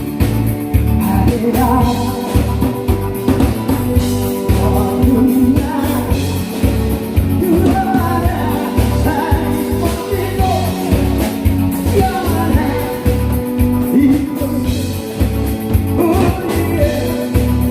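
A singer performing a song live over loud backing music with a steady, pulsing beat.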